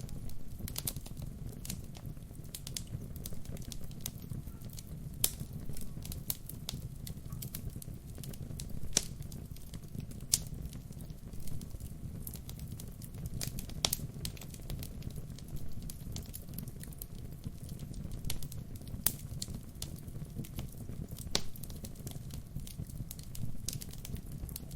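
Wood fire burning with a steady low rumble and irregular sharp crackles and pops, a few of them louder.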